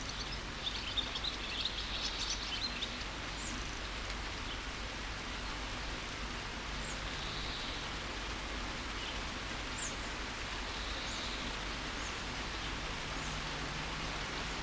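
Steady rain hissing, with small birds chirping now and then over it and a quick flurry of short chirps in the first few seconds.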